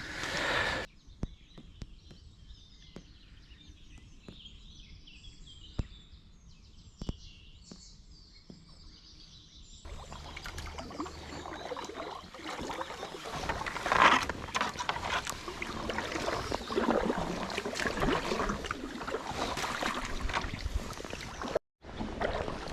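Faint small-bird song and a few light knocks over quiet water. About ten seconds in, a louder rushing and splashing of water around a kayak begins and runs on unevenly.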